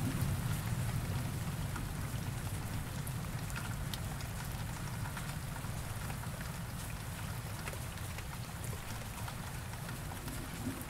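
Steady rain falling: an even hiss with scattered sharp drop ticks. A low rumble underneath eases off over the first couple of seconds.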